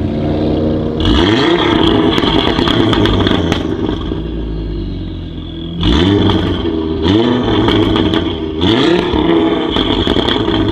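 Audi RS3 8V Sportback's turbocharged five-cylinder engine, breathing through a Milltek downpipe with the secondary catalytic converter removed, accelerating hard. It surges in suddenly about a second in, then rises in pitch several more times from about six seconds on.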